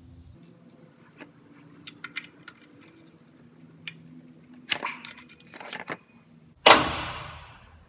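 Ratchet and socket clinking and rattling in small irregular metallic clicks as they are fitted to the oil drain plug under the truck, with a couple of short scrapes, then one loud sudden clank near the end that fades over about a second.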